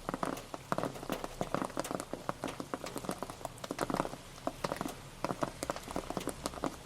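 Rain pattering: many irregular drop impacts over a steady hiss of rainfall.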